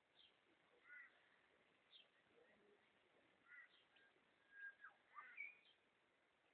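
Faint bird calls, tentatively a red wattlebird: short high falling notes repeating about every two seconds, mixed with lower, harsher call phrases about a second in, midway and loudest about five seconds in.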